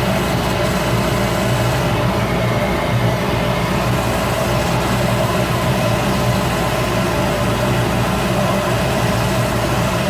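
Shop Fox W1836 midi wood lathe running steadily as cork grips are shaped on it, with a motor hum and a high hiss that thins for a moment about two seconds in.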